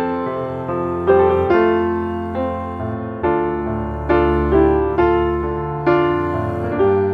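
Slow, gentle piano music: notes and chords struck about once a second, each left to ring and fade.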